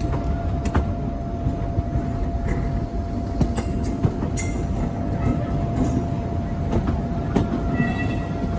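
Diesel-hauled train running on the rails: a steady low rumble with a constant hum and scattered sharp clicks from the wheels and track.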